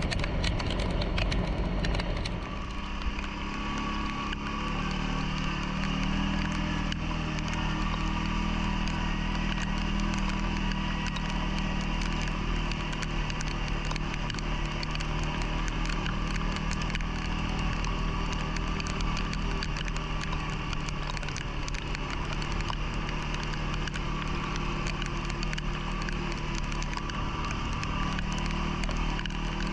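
CFMoto ATV engine running at a steady speed with an even hum, with some crackling and clicking in the first couple of seconds.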